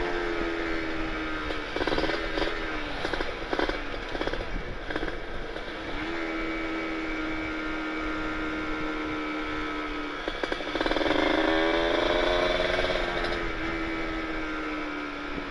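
Kawasaki Ninja 150RR's two-stroke single-cylinder engine on the move through an aftermarket Aitech carbon-kevlar exhaust with R9 chamber. The note falls off at first, runs steady for a few seconds, revs up sharply about eleven seconds in, then drops away again.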